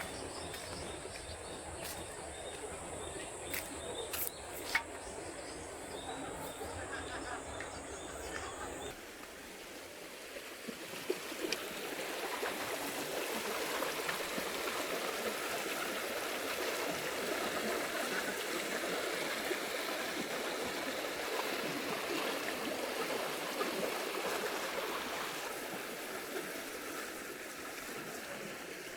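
Water running steadily in a stream. The rushing grows louder from about twelve seconds in and eases toward the end. Before it, for the first third, is a different steady background with a faint high whine and a few clicks, which cuts off abruptly.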